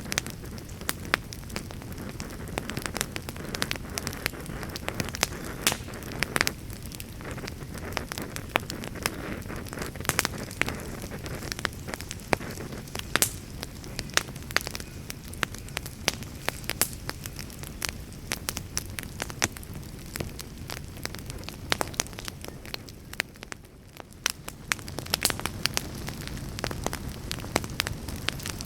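Campfire burning, with frequent sharp crackles and pops over a steady low rush of the flames. The low rush eases briefly a little past two-thirds of the way through, then comes back.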